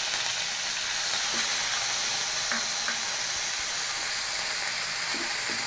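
Onion, ginger and garlic paste sizzling in hot oil in a frying pan, a steady hiss, stirred with a wooden spatula.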